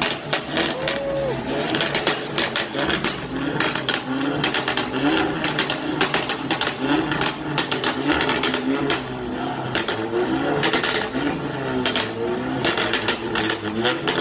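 Volkswagen Golf GTI's turbocharged four-cylinder idling through an aftermarket exhaust, with a rapid, irregular ticking over it and voices around.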